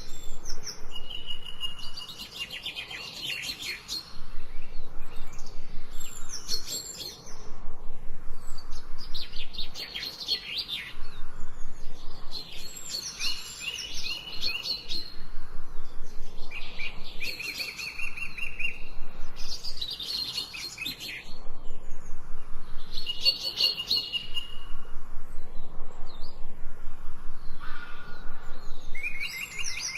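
Songbirds singing in the forest: phrases of rapid, high chirps and trills about two seconds long, repeating every three to four seconds.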